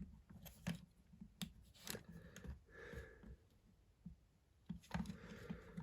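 Light clicks and taps of Lego plastic pieces being handled, with a faint breathy murmur between them.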